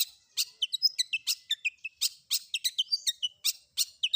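Long-tailed shrike (cendet) singing a rapid mimicry medley: harsh rasping notes alternating with short, high whistled notes that slide down, about five a second.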